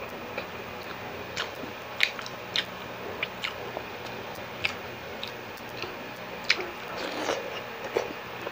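Close-miked wet chewing and mouth smacks of someone eating steamed siomai dumplings, with sharp clicks scattered irregularly over a steady background hiss.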